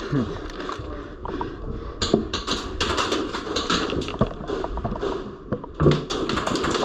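Airsoft guns firing in rapid bursts of sharp clicking pops, growing much denser about two seconds in.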